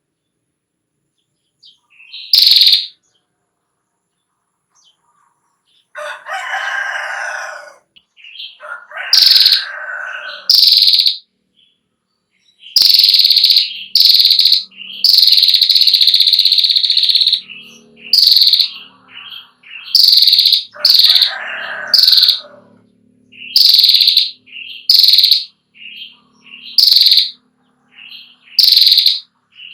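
Female prenjak klawu (a prinia) calling in sharp, repeated, high notes, with a long unbroken stretch of its rapid 'ngetir' rattle about halfway through. A rooster crows a few times behind it.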